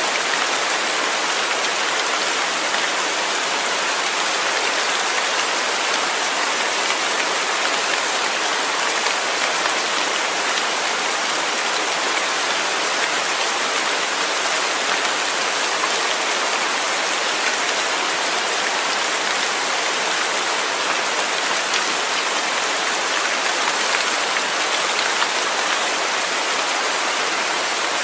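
Steady rain falling, an even hiss of many fine drops striking a surface, with no let-up.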